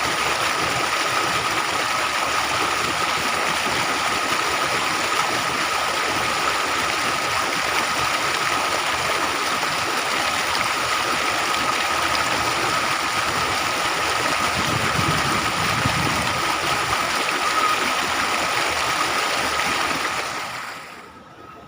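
Water rushing steadily in an irrigation channel, with a thin steady high tone over it; the rushing fades down sharply near the end.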